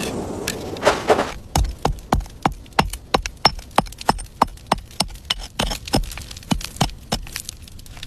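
A rapid series of sharp knocks or strikes, about three a second, that stops about seven seconds in.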